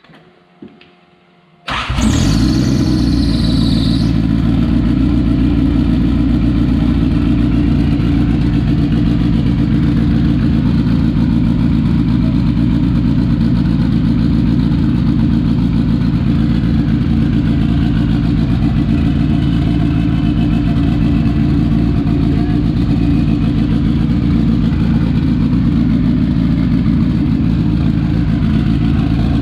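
Turbocharged Honda four-cylinder engine started up about two seconds in, catching at once with a high whine that falls away over the next couple of seconds, then running steadily.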